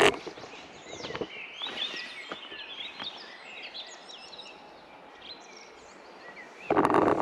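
Several birds singing and chirping in woodland. There is a loud footstep on the trail at the start and another near the end.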